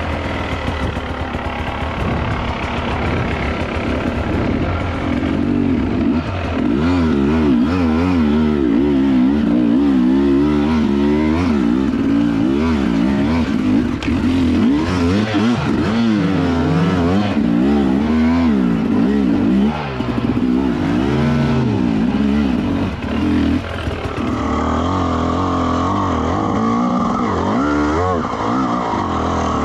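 Two-stroke dirt bike engine revving up and down over and over under load, the pitch rising and falling every second or two. In the last few seconds it holds a steadier, higher pitch.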